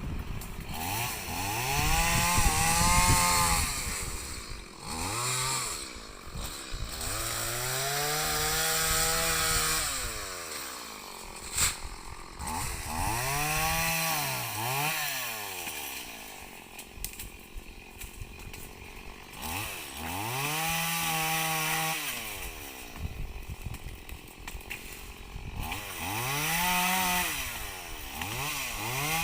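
Two-stroke chainsaw revved up and let fall back to idle, about five times, each burst lasting a few seconds.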